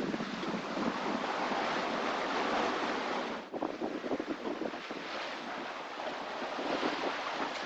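Wind buffeting the microphone over the rush of ocean waves around a sailboat under sail in 15 to 20 knot winds, with a brief dip in level about three and a half seconds in.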